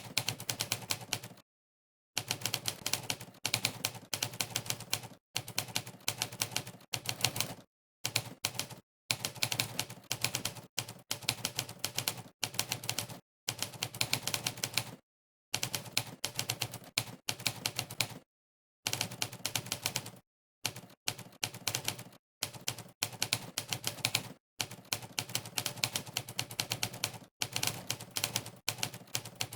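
Monkeytype's typewriter sound effect, one clack of a typewriter key strike for each keystroke. It comes in fast runs of clacks, word by word, broken every second or two by short gaps of dead silence.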